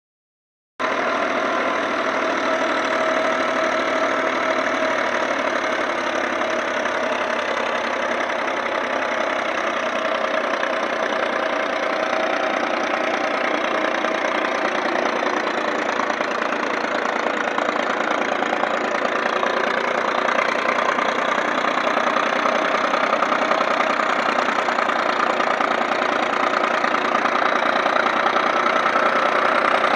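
Diesel engine of a Millat tractor running steadily while driving a wheat thresher, a dense, even mechanical clatter. It starts abruptly about a second in and grows slightly louder near the end.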